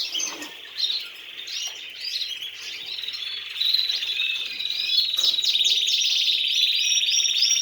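Domestic canary song: continuous warbling with quick chirps, which grows louder about halfway through into a fast rolling trill.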